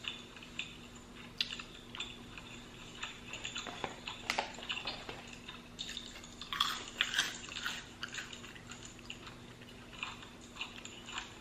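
Close-up eating sounds of fried shrimp being bitten and chewed: irregular crisp crunches and wet chewing, heaviest about two-thirds of the way through, over a faint steady hum.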